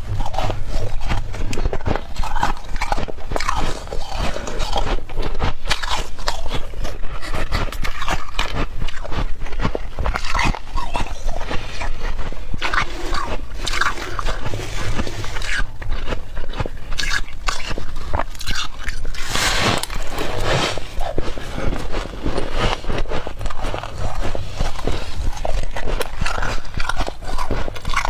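Close-up biting and chewing of soft refrozen humidifier frost, a continuous run of squeaky crunches.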